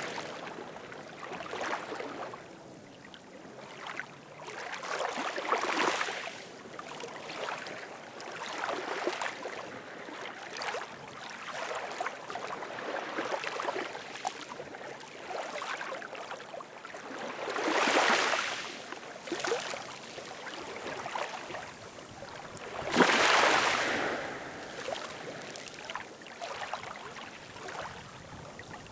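Ocean surf: waves washing in one after another, each one swelling and fading over a few seconds. The two loudest break a little after halfway and again about five seconds later.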